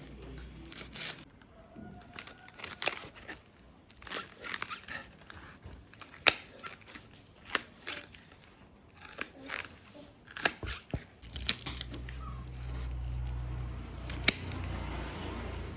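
Kitchen handling sounds: packaging rustling, crinkling and tearing, with light clicks and knocks. A low steady hum joins about eleven seconds in.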